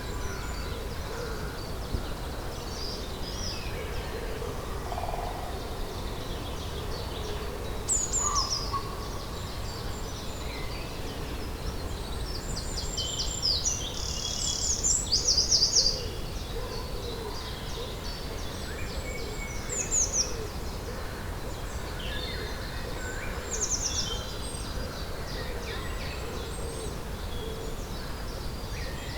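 Springtime birdsong: several songbirds singing short, high, trilling phrases now and then, loudest about halfway through. A low hooting or cooing call repeats steadily underneath, over a constant low background rumble.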